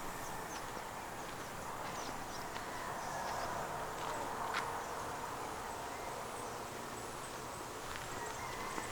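Steady outdoor forest ambience with a faint insect hum, broken by a few light sharp clicks.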